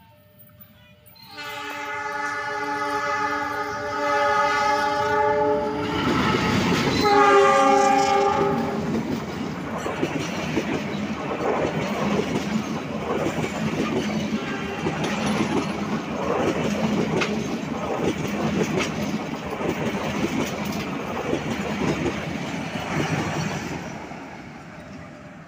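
Diesel locomotive's multi-note air horn sounding a long blast from about a second in, then a second, shorter blast on different notes. The passenger carriages then pass close by, their wheels clattering over the rail joints, and the sound fades near the end.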